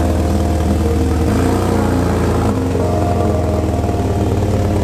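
BMW E46 Compact's engine running at low revs as the car reverses away, its note changing twice.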